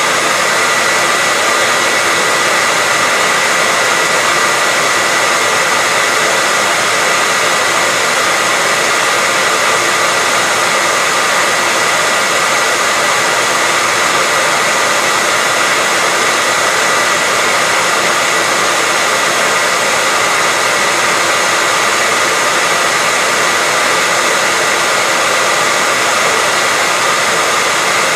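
Hair dryer running steadily at constant speed: an even rush of air with a steady high whine, without a break.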